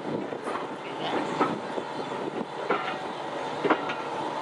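Steel wheels of passenger coaches running on the rails, heard from an open coach window as two trains pass alongside each other: a steady rumble with irregular sharp clicks and knocks over the track joints and a brief squeal.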